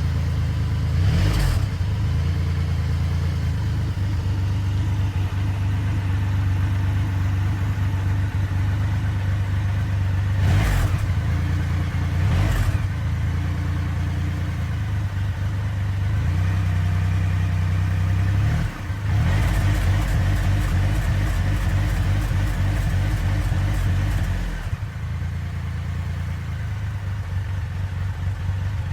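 Motorcycle engine running steadily, with a few quick revs, about a second in and twice more around ten to thirteen seconds in. It drops back to a lower note near the end.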